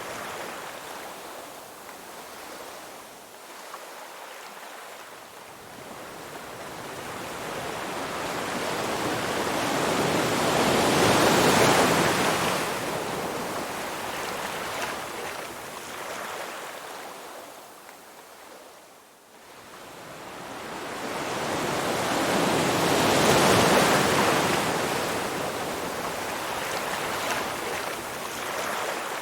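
Ocean surf: waves wash in and draw back in slow surges. Two waves build to a peak about twelve seconds apart, with a lull between them.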